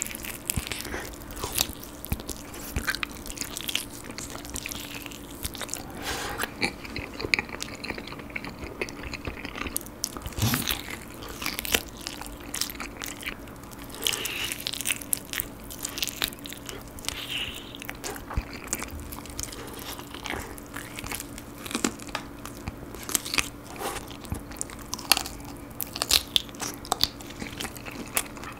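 Close-miked biting and chewing of grilled chicken: a steady run of short clicks and crunches from teeth, lips and meat, with a few louder bites.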